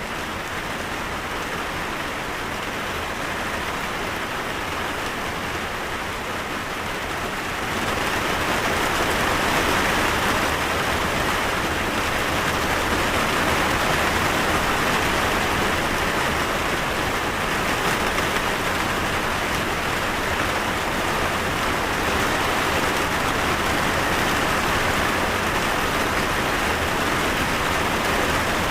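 Steady rain falling, becoming heavier and louder about a quarter of the way in.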